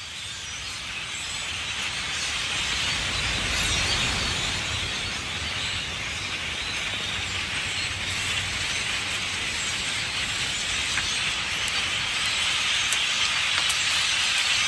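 A huge flock of common grackles calling and flying overhead: a dense, continuous din of countless blackbird voices that builds over the first few seconds and then holds steady.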